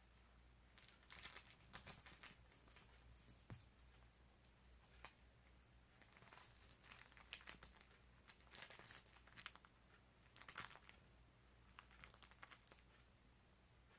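Kitten playing with a toy: irregular bursts of crinkling, rustling and light scratching, in several short clusters with quiet gaps between.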